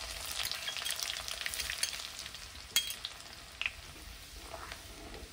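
Cumin seeds and chopped garlic sizzling and crackling in smoking-hot mustard oil in a kadhai, stirred with a wooden spatula: the tempering (tadka) stage. The sizzle is loudest in the first two seconds and then eases, with a few sharp ticks near the middle.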